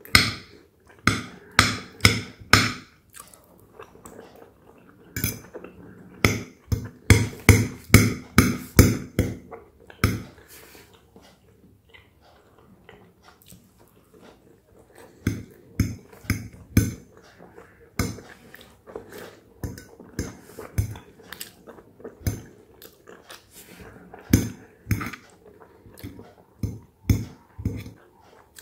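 A person chewing soft boiled carrots and fennel close to the microphone, in bouts of quick, rhythmic chews separated by short pauses. A metal fork clinks and scrapes against a ceramic plate as food is picked up.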